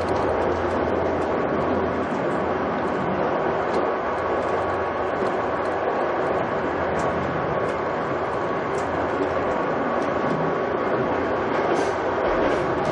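Passenger train running at speed, heard from inside the carriage: a steady rumble and rush with a low hum and a few faint clicks.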